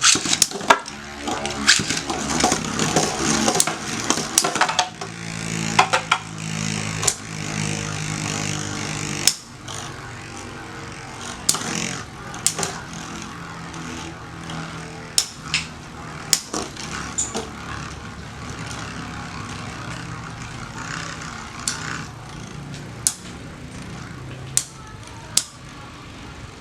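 Metal Fight Beyblade tops (Lightning L-Drago, Storm Pegasus, Rock Leone) spinning in a stadium: a steady whirring hum broken by many sharp clacks as the metal tops collide. The whir weakens sharply about nine seconds in.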